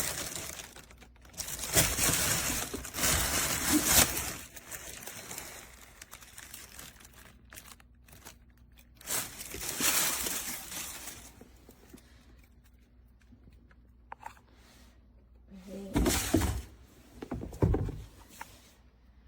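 Rustling and crinkling handling noises in several bursts, heaviest early on and again about ten seconds in, with a few dull thuds near the end.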